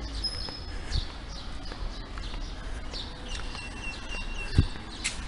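Birds chirping with short, scattered high calls and one brief trilling call about two-thirds of the way in, over a low steady outdoor rumble. A single thump sounds near the end.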